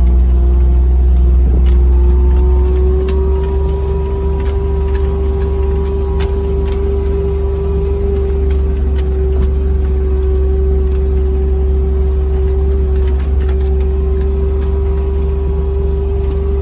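Vehicle driving at a steady pace: a low drone with a steady whine that rises slightly a couple of seconds in and then holds at one pitch. Scattered faint clicks and rattles run through it.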